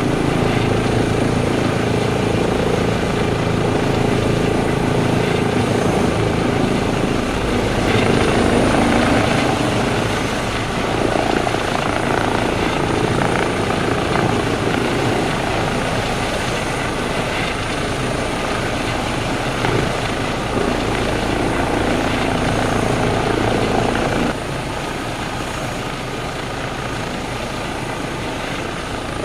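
Eurocopter EC135 P2+ helicopter running, its main rotor and twin Pratt & Whitney Canada PW206B2 turboshaft engines giving a steady whine and rotor noise. About 24 seconds in, the sound steps down abruptly to a lower, quieter level.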